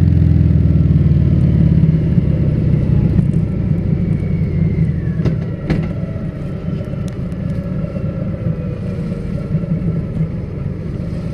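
Harley-Davidson Fat Bob's V-twin running through a Vance & Hines exhaust on the move. It pulls with a strong, even note for about the first two seconds, then eases off and settles to a lower, quieter running sound.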